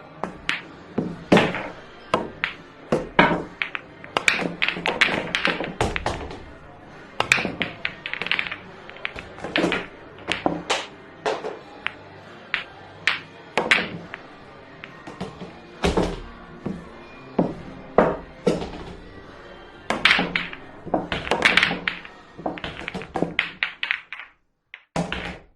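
Billiard balls clacking against each other and cue tips striking balls: sharp, irregular clicks, some in quick runs of two or three, over a steady background hum, with a brief break about a second before the end.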